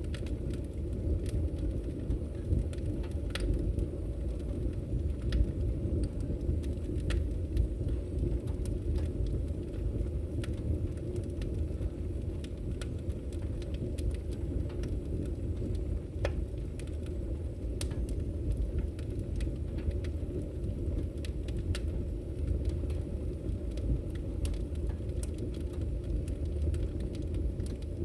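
Burning logs in a fireplace: a steady low roar of flames with scattered, irregular sharp crackles and pops.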